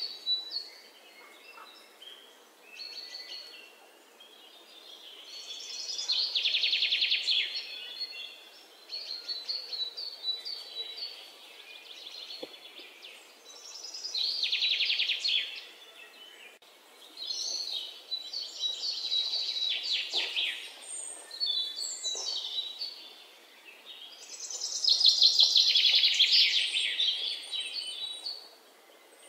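Birds singing: repeated bursts of rapid, high trills and chirps that swell and fade, the loudest coming every eight to ten seconds.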